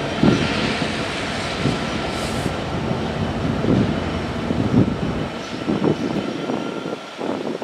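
Train cars rolling past on the rails: a steady rumble with heavy clunks from the wheels at uneven intervals and a faint steady squeal, dropping off about seven seconds in.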